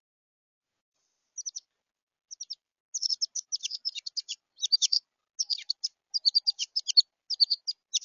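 A juvenile songbird, which the uploader takes for a young Carolina wren, gives high, rapid chirps. These are begging calls given with its bill open and wings fluttering. The chirps start about a second and a half in, come as two short runs, then turn into a quick, almost unbroken series.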